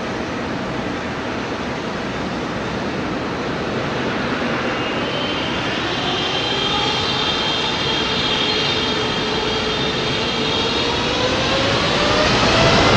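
Jet airliner's engines growing steadily louder as the aircraft approaches, a broad rush with high whining tones coming in about halfway through and a lower whine rising in pitch near the end.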